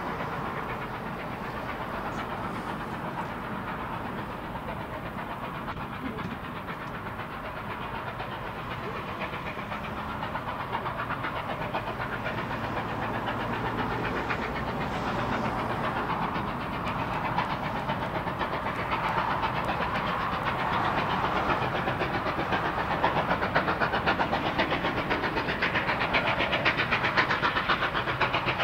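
Approaching train led by a diesel locomotive: its engine sound rises steadily as it nears, and a fast regular engine pulse comes through over the last few seconds.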